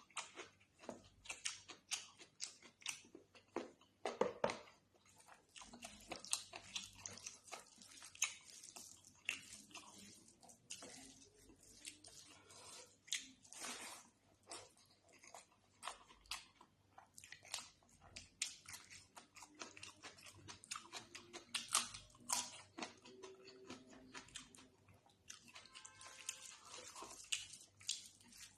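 Close-miked eating: steady chewing and biting with wet mouth clicks and smacks through a meal of chicken curry and rice.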